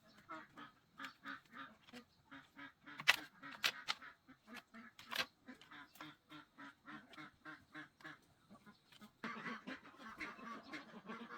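Ducks quacking rapidly and repeatedly, several calls a second, the flock calling over one another more densely near the end. A few sharp knocks stand out a few seconds in.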